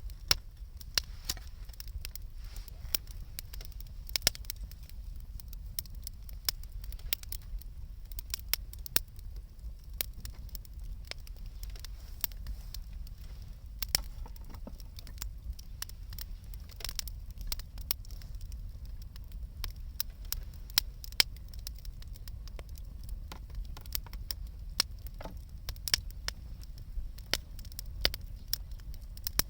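Wood fire burning, with many irregular sharp crackles and pops from the burning wood over a low steady rumble.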